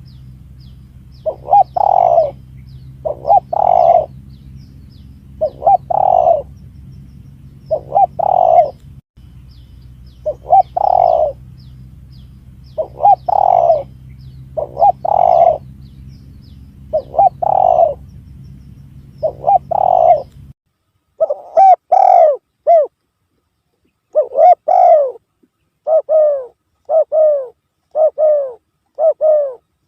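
Spotted dove (tekukur) cooing over and over, as a bird-lure call recording: a two-note coo phrase about every two seconds. About two-thirds through, the low background hum cuts out suddenly and the coos continue cleaner and closer together.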